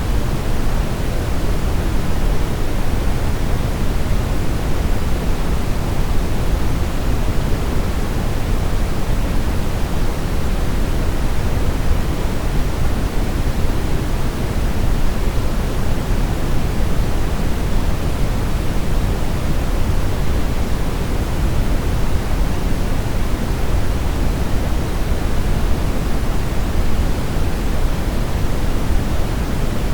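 Steady brown noise: an even, deep rushing hiss, strongest in the low end and softer in the highs, with no change in level.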